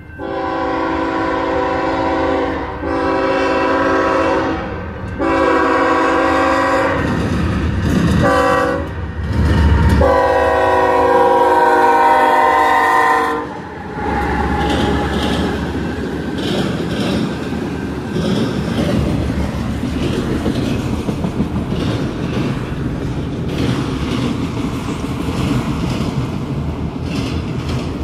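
BNSF GE Evolution-series diesel locomotive sounding its Nathan K5HL five-chime air horn for the grade crossing: several blasts, the last held about three and a half seconds, with the diesel engine surging past in between. The horn stops about halfway through, and the autorack cars roll by with a steady rumble and rhythmic clatter of wheels over the rail joints.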